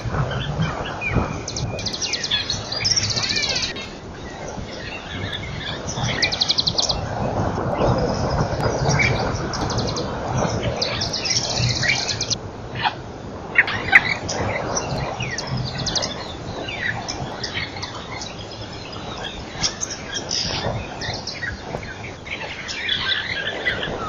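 Several birds chirping and calling, with a few rapid buzzing trills among them, over a steady low background noise.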